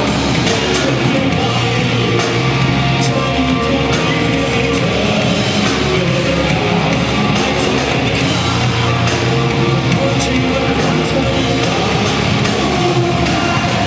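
Loud heavy rock music from a band, with distorted electric guitar, regular drum and cymbal hits, and a voice singing.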